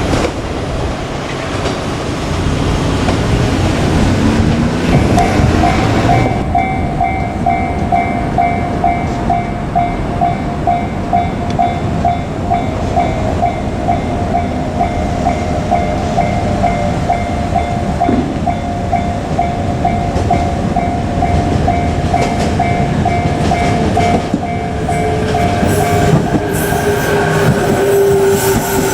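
JR Kyushu 817 series electric train running through a level crossing, its wheels clattering, while the crossing's warning bell dings in a steady repeating rhythm. The bell stops near the end, and a whining tone slowly falls in pitch as a train moves off.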